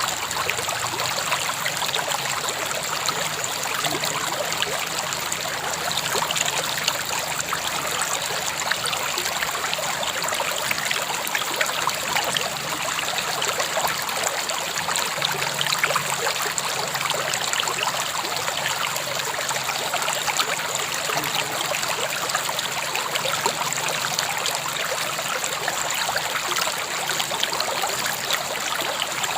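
River water flowing steadily over stones, a continuous rushing with fine splashing and trickling.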